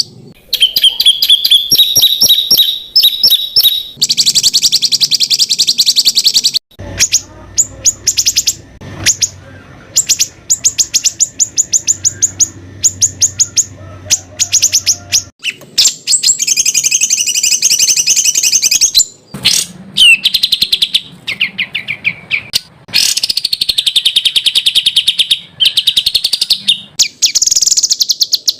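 Songbirds singing rapid-fire strings of short, sharp, high repeated notes, the 'tembakan' song material used to train competition songbirds. The song changes abruptly every few seconds, where separate recordings are spliced together.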